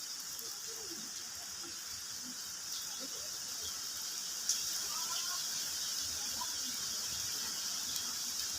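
Rural outdoor ambience: a steady high hiss with a few faint bird chirps, and a single sharp tick about four and a half seconds in.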